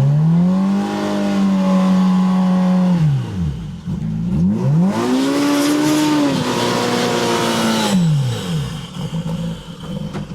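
Turbocharged Polaris RZR Pro R four-cylinder engine revved hard in two long held bursts, the second higher, with a hiss over the second burst, then dropping back to idle near the end, as the side-by-side struggles through deep packed snow.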